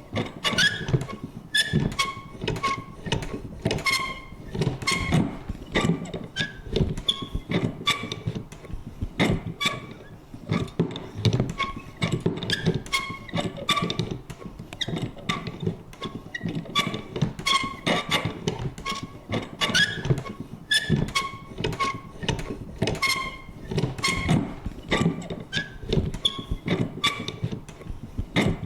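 Vintage paper punch worked over and over: short creaks and squeaks from its lever mixed with clunks, two to three a second in an uneven rhythm.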